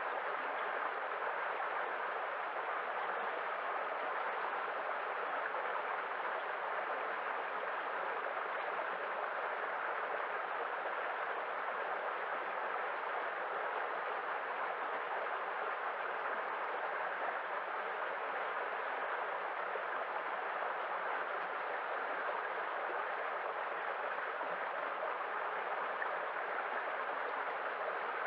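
Continuous rush of surf, steady in level, with no single wave break standing out.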